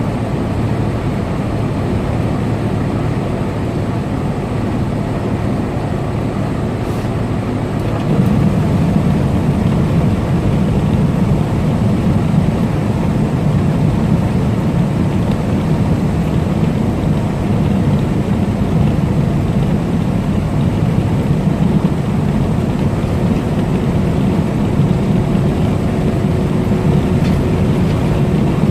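Semi truck driving on the highway: a steady low engine drone mixed with road noise, getting louder about eight seconds in.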